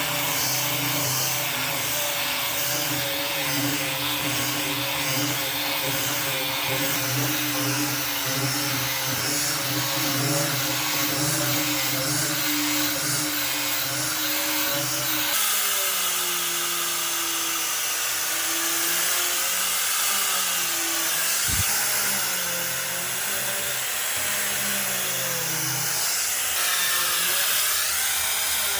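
Electric power tool running steadily with a motor hum. About halfway through the sound changes abruptly to a different, wavering hum with more hiss.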